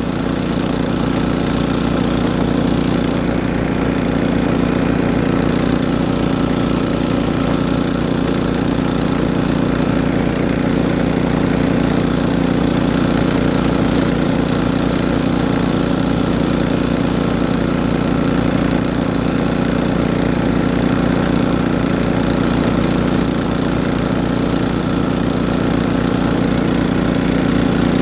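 Gas snowblower engine running steadily at a constant speed while clearing snow.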